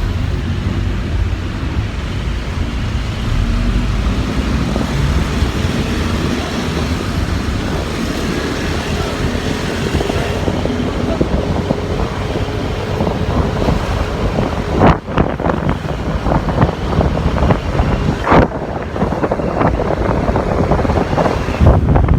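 A motorcycle running on the road while being ridden, with wind blowing on the microphone over road and traffic noise. There are two sudden sharp knocks in the second half.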